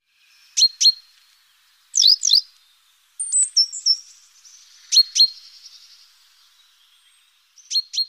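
Small birds chirping: sharp high chirps in quick pairs, repeated three or four times, with a short run of twittering notes in the middle and a faint trill after it.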